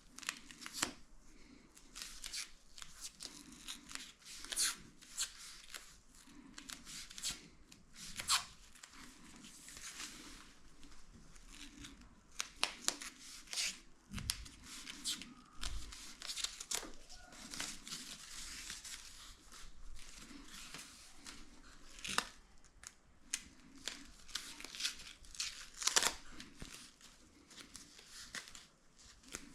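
Hands cutting and handling material close by: irregular sharp clicks and snips with brief tearing sounds, and two low thumps about halfway through.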